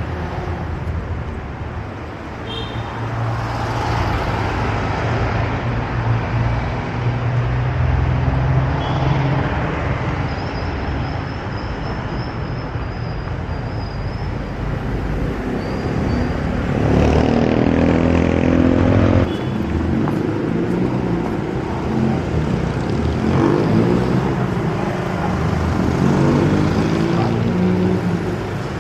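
City street traffic: motor vehicles passing with engines running under a steady road-noise hum. A louder engine goes by about two-thirds of the way in and another near the end.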